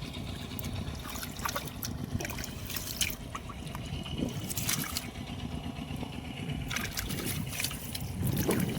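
Shallow, muddy rice-field water splashing and trickling, with scattered short, sharp splashes from hands working through it.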